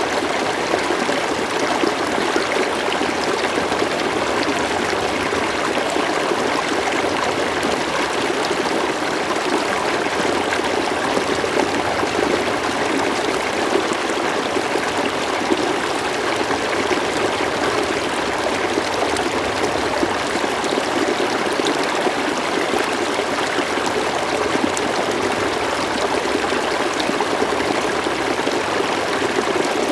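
River water flowing and trickling, a steady, even rush with no change.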